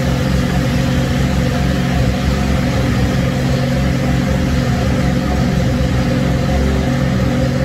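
Mazda RX-7's three-rotor rotary engine running steadily at a constant speed, without revving.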